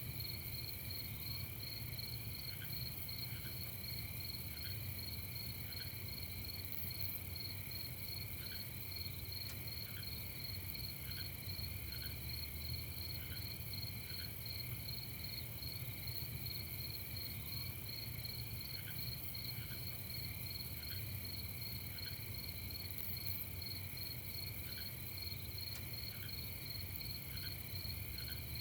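Night chorus of crickets: several steady, rapidly pulsing trills at different high pitches that run on without a break. Short, faint lower chirps come every second or so, over a low rumble.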